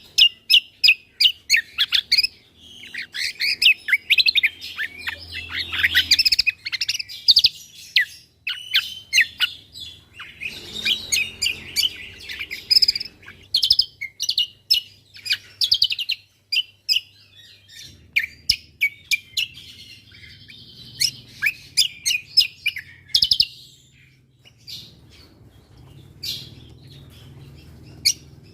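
Cucak kombo (kecial kombo) singing a fast, varied song of sharp chirps, whistles and rapid-fire note bursts, in bouts broken by brief pauses.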